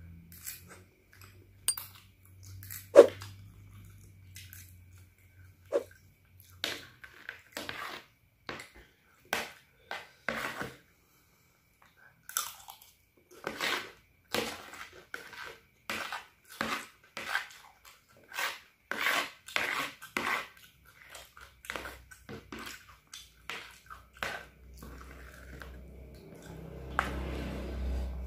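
Close-up chewing of fried instant noodles: a string of short, irregular wet mouth sounds, with one sharp clack about three seconds in.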